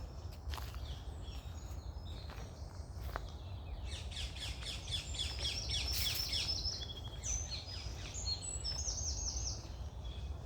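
Several songbirds singing in the morning: scattered chirps, then from about four seconds in fast runs of rapidly repeated high notes. A steady low rumble of background noise runs underneath.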